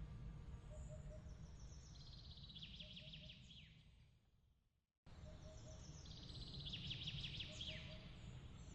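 Birds trilling and chirping over a steady low background rumble. About four seconds in the sound fades away to a moment of silence, then starts again abruptly and the same trill comes back: a looped ambience recording.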